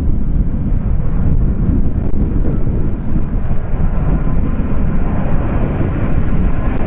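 Strong wind buffeting the microphone in a steady low rumble, with the engine whine of an approaching aircraft growing louder in the second half.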